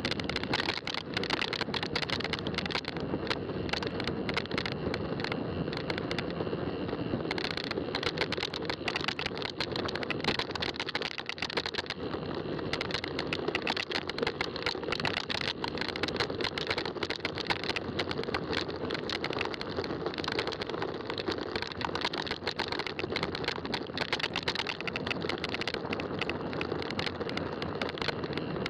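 Fat-tire bike riding along a trail: steady tyre rolling noise with a constant patter of small clicks and rattles.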